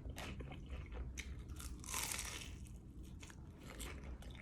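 Faint biting and chewing on a crispy fried spring roll, with one louder crunch about two seconds in.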